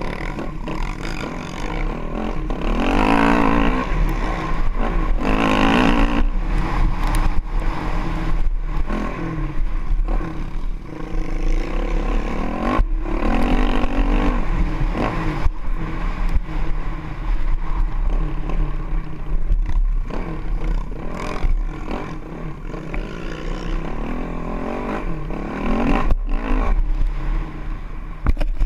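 Honda CRF450X single-cylinder four-stroke trail bike engine revving up and down over and over as it is ridden hard around a motocross track, with clattering knocks from the bike over the bumps and wind rumbling on the microphone.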